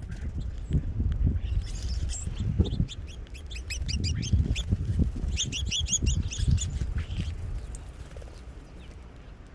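Small birds at a feeder chirping in quick runs of short high notes, busiest through the middle. Underneath is an irregular low thumping rumble that fades near the end.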